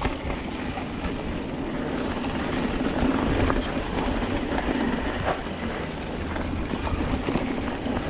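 Rumble of a bike being ridden fast down a rough trail: tyres on dirt and rocks, rattling, and wind on the camera microphone.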